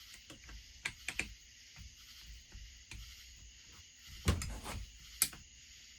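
Metal hand tools clinking and knocking on a workbench as they are picked up and set down while sorting for the right one. A few separate clicks, with a heavier knock a little after four seconds in.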